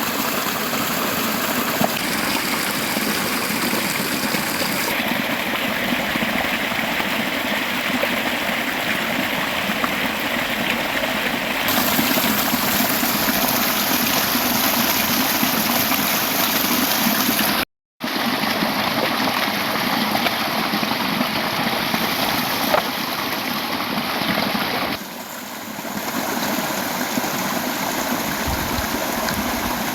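River water running steadily. Its tone shifts abruptly several times at edit cuts, and it drops out completely for a split second about eighteen seconds in.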